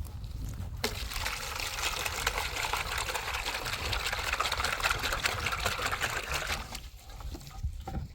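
Water pouring in a steady stream, starting abruptly about a second in and stopping near the end, over a low rumble.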